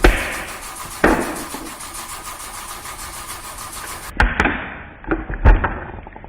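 Mustang being cranked without starting: two short bursts of engine noise, each fading away, then a steady hum. After a cut about four seconds in come several sharp thumps.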